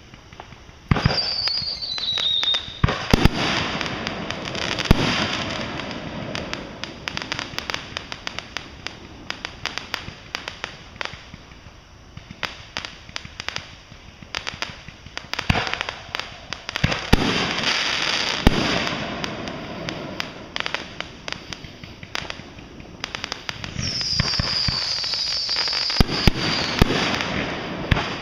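Fireworks going off: a dense run of sharp bangs and crackling that starts about a second in. A whistle falls in pitch near the start and another comes near the end.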